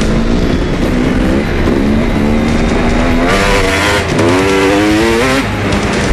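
Dirt bike engine revving, its pitch rising and falling in repeated bursts, louder and harsher from about three seconds in.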